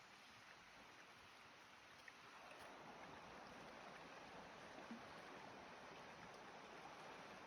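Near silence: a faint, steady hiss that grows slightly louder about two seconds in.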